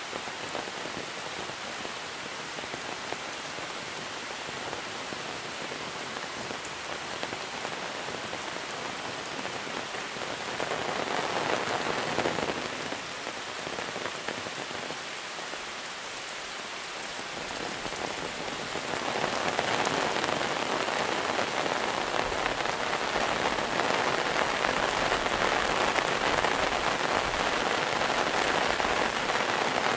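Monsoon rain pouring steadily, swelling heavier for a couple of seconds about ten seconds in and growing heavier again from about two-thirds of the way through.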